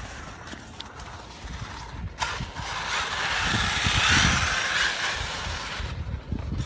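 Traxxas T-Maxx RC truck's brushless motor and gearing whirring as the truck drives. The sound grows from about two seconds in, is loudest around four seconds, then fades, with gusts of wind rumbling on the microphone.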